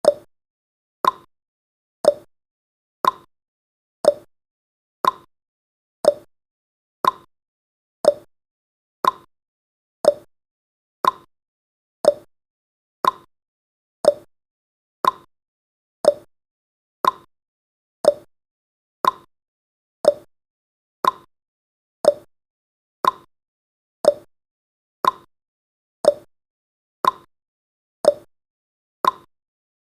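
Clock-style ticking sound effect of a countdown timer, one short tick every second, alternating slightly in pitch like a tick-tock.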